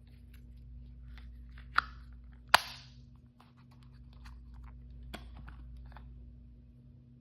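Hands handling and opening toy blind-bag packaging. Scattered crinkles and clicks, with two loud sharp snaps close together about two seconds in and a smaller snap about five seconds in.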